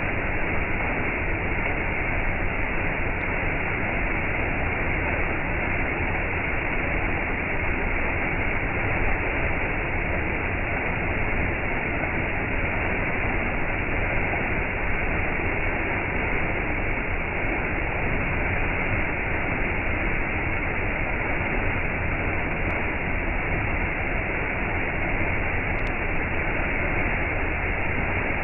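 Waterfall: water falling and rushing in a steady, unchanging noise.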